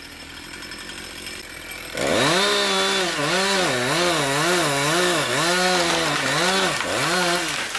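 Gasoline chainsaw, quiet at first, then loud about two seconds in as it cuts into the trunk of a leaning tree being felled. The engine pitch dips and recovers about twice a second as it works.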